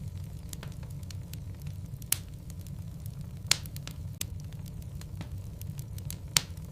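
Wood logs burning in a fireplace: a steady low rumble of the flames with frequent sharp crackles and pops, three of them louder, about two, three and a half and six seconds in.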